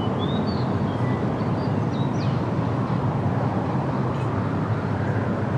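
Steady low outdoor background rumble, with a few faint high chirps in the first couple of seconds.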